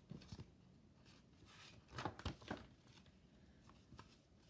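Near silence: quiet room tone with a few faint short clicks and rustles, the clearest cluster about two seconds in.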